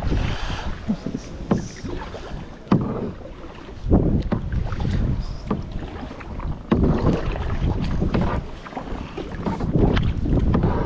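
Kayak paddle dipping and splashing in the water at irregular intervals, with wind buffeting the camera's microphone as a constant low rumble.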